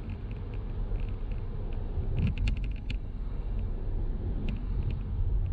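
Car driving: a steady low rumble of engine and road noise, with a few faint clicks about two to three seconds in.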